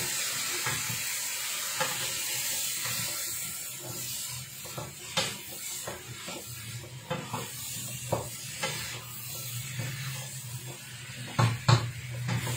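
Chicken sambal frying in a wok with a steady sizzle, while a wooden spatula scrapes and knocks against the pan as it is stirred; two louder knocks come near the end.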